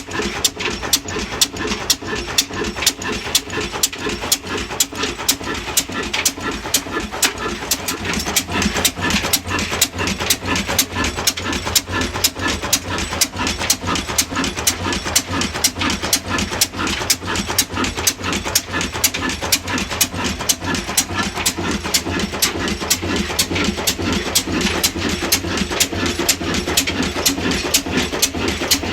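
Slow-speed stationary diesel engine with large flywheels running steadily, its firing beats coming as an even rhythm of sharp knocks a few times a second.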